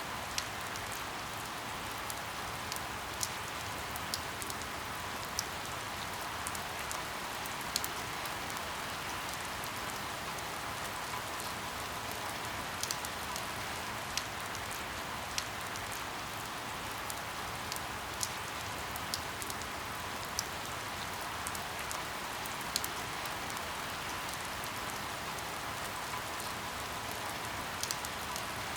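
Steady rain pattering on a window pane, with scattered sharper drop ticks every second or so.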